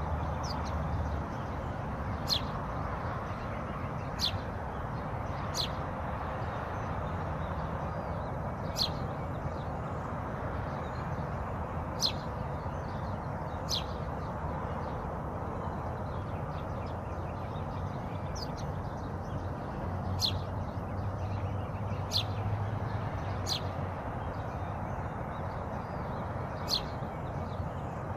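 Single short, high bird chirps, about a dozen spaced a few seconds apart, over a steady rushing background noise.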